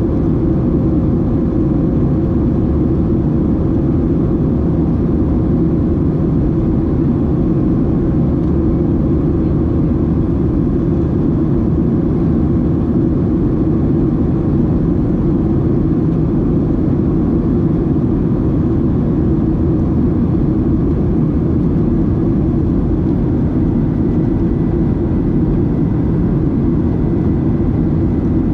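Steady cabin roar of a Boeing 737-700 in flight, heard from a window seat: mostly a deep rumble from its CFM56-7B engines and the rush of air over the fuselage. A faint steady hum fades out about halfway through.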